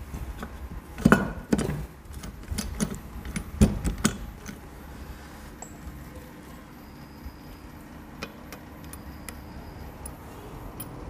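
Metal parts of a motorcycle gearbox clinking and knocking as they are handled and fitted into the engine crankcase. There is a quick run of sharp clinks in the first four seconds or so, loudest about a second in and again near four seconds. After that come only a faint steady hum and a few light ticks.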